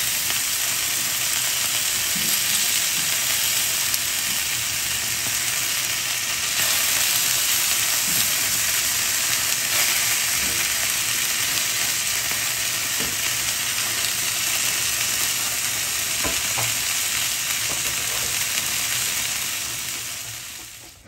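Cod pieces sizzling in oil on a flat griddle (plancha): a steady frying hiss that fades out near the end.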